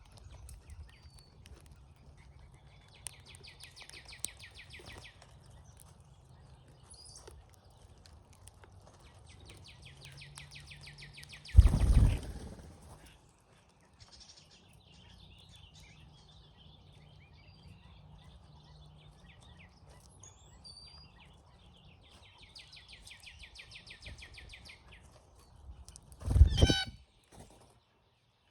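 Brown-headed cowbirds at a feeder giving rapid, buzzy rattling chatters, three times, with a few thin high whistles between. Two short loud thumps close to the microphone, about halfway through and near the end, are the loudest sounds.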